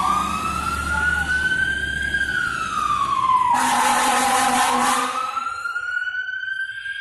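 Fire engine's siren on a slow rising and falling wail as the truck pulls out on a call, with a blast of its horn a little past halfway. A low engine rumble is under the first couple of seconds.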